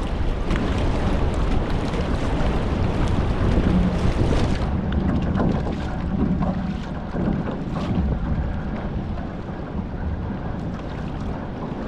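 Hobie 14 catamaran under sail: wind buffeting the microphone over water rushing and splashing past the hulls in a swell. The high hiss eases about five seconds in.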